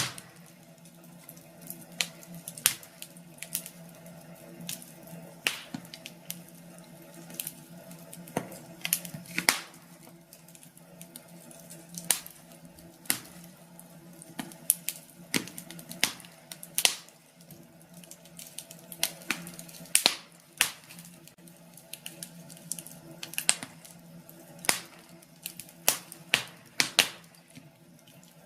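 Wood fire in a fireplace crackling, with sharp irregular pops and snaps about one or two a second over a faint steady low hum.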